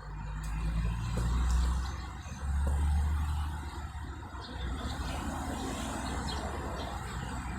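Road traffic passing close by: heavy vehicles' engines rumbling low, swelling loudest about a second and a half in and again around three seconds in.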